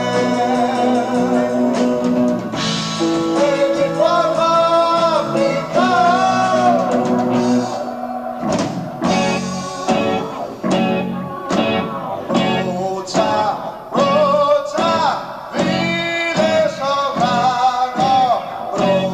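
Progressive rock band playing live, from an amateur tape recording: sustained chords with a melodic line over them, then, about halfway through, the band comes in with regular drum hits.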